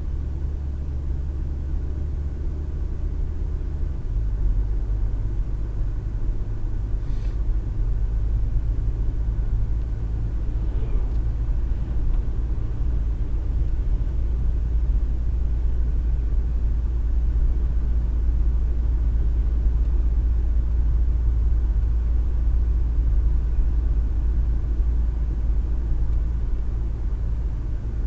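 Car driving on the road, with a steady low engine and road rumble heard from inside the cabin through a dash cam's microphone. The low drone shifts in pitch about four seconds in.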